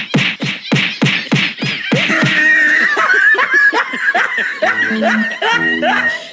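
Laughter: a quick run of 'ha-ha' bursts, about four a second, over background music, then gives way to wavering pitched tones.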